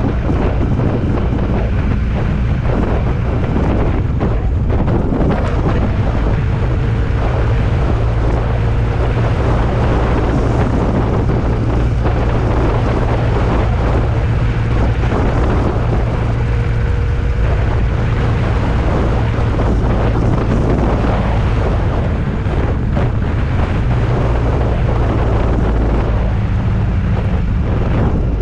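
Vehicle engine running steadily under heavy wind buffeting on the microphone, as when moving at speed; its low hum shifts in pitch a few times.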